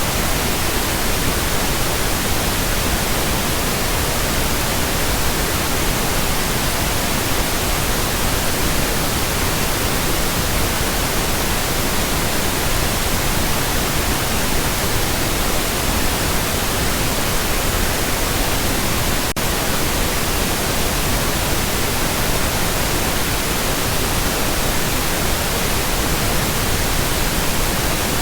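Steady pink noise: an even, loud hiss across all pitches, with one very brief dropout about two-thirds of the way through.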